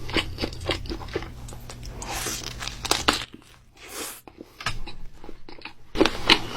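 Crunchy bites and chewing of a sandwich, with a short crinkly rustle in the middle. It ends in a louder run of crisp crunches.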